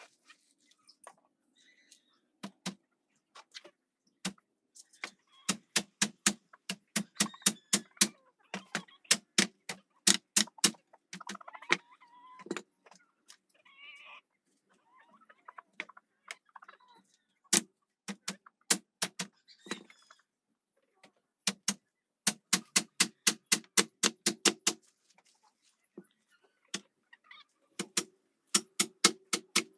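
Hammer driving nails: runs of quick, evenly spaced blows, about four a second, each with a short ring, broken by pauses.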